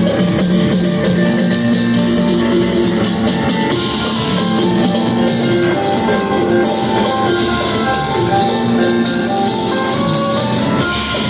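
A band playing live and loud, with drum kit and cymbals under sustained instrumental notes.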